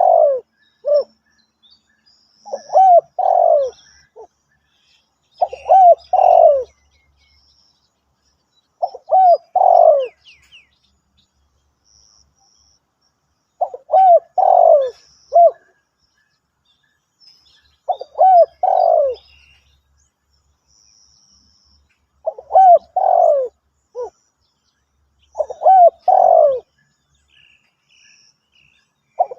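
Spotted dove cooing: a loud phrase of several notes, repeated about every three to four seconds, eight times over, with faint high chirps of other small birds in between.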